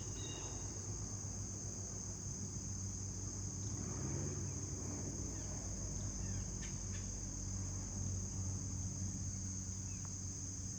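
Crickets chirping in a steady, high, unbroken chorus, over a faint low hum that swells slightly a few times.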